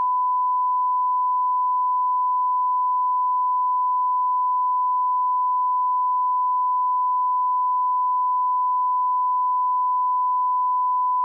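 Steady 1 kHz sine line-up tone at −18 dBFS, a continuous unbroken pure tone used as the reference level for aligning audio equipment.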